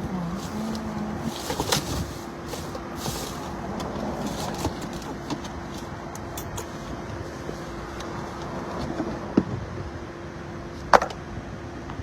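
Inside a Toyota RAV4's cabin, a steady hum from the car as it moves slowly or idles while parking, with a few short clicks and knocks, the sharpest about eleven seconds in.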